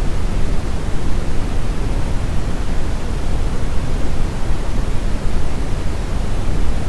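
Steady brown noise: an even, deep rushing hiss, strongest in the low end and falling off toward the highs, with no changes.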